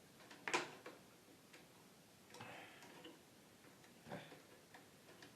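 Small clicks and a short scraping rustle from hands working on a coffee machine's parts and wiring: a sharp click about half a second in, a brief scrape around two and a half seconds, and another click a little after four seconds.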